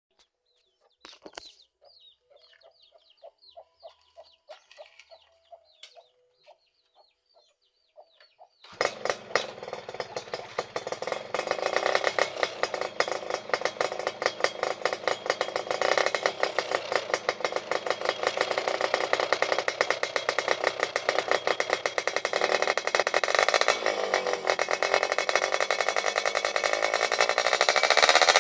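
Yamaha F1ZR two-stroke single-cylinder moped fitted with an aftermarket 'cring' racing exhaust: after a few faint clicks it comes in suddenly about nine seconds in and runs with a dense, rapid exhaust note that grows louder, revving up near the end.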